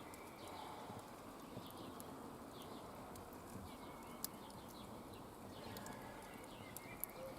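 Faint outdoor ambience with small birds chirping repeatedly, in short descending calls. Two sharp clicks stand out, one about four seconds in and one near the end.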